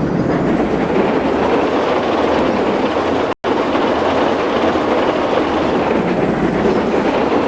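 A train running: a steady, loud rush and rumble, cut off for an instant a little before halfway through.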